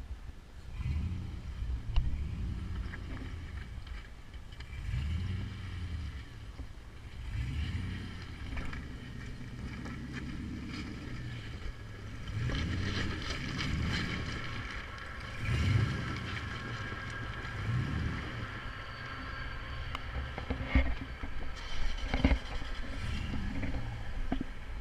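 LS V8 engine of a Jeep TJ crawling over rocks, rising in short bursts of throttle and dropping back between them. Sharp knocks come from the rig working over the rocks, several of them near the end, and a steady whine sounds through the middle.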